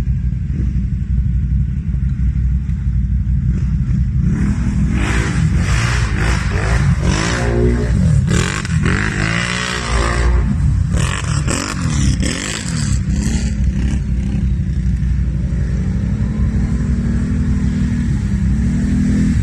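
Off-road vehicle engine running under a steady low drone, revved up and down repeatedly for about ten seconds in the middle, with scraping and clattering noise over it, then settling back to a steady run.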